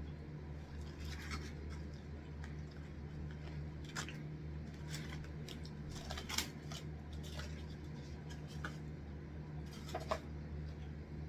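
Close-up eating sounds: scattered short crisp crunches and clicks, the sharpest about six and ten seconds in, over a steady low hum.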